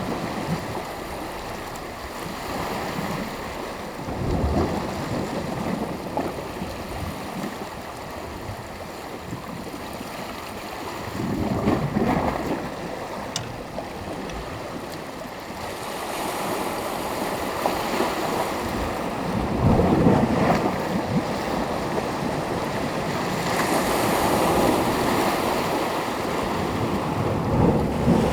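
Waves breaking and washing on the shore, in swells that come every few seconds over a steady surf noise.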